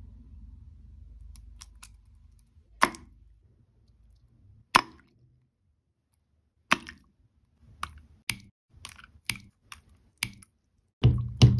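Brittle things cracking and snapping as they are crushed: a faint low rumble at first, then single sharp cracks that come faster after the middle, and a louder, heavier crunch near the end.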